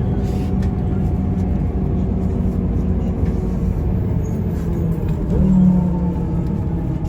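Mercedes-Benz O405N2 city bus heard from inside while driving: a steady low engine drone with road rumble. A louder hum swells briefly about five and a half seconds in.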